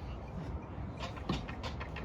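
Sharp percussion clicks keeping a steady beat, about three a second, starting about a second in over a low crowd rumble.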